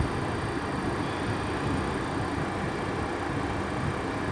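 Cockpit noise of an MD-80 taxiing, a steady rush of its rear-mounted JT8D turbofans at idle and the air-conditioning, with two faint, thin high whines held steady over it.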